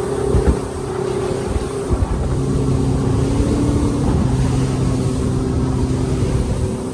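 Small boat's outboard motor running steadily under way, its pitch shifting a little about two to three seconds in, with a few low thumps near the start.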